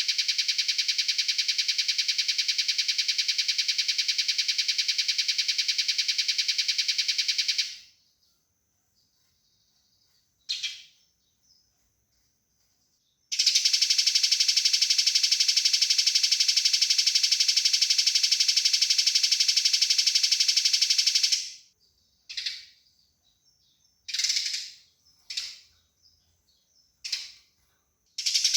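Eurasian tree sparrow fighting calls: two long, fast, tightly pulsed rattles of about eight seconds each. Single short chirps come between them and several more near the end.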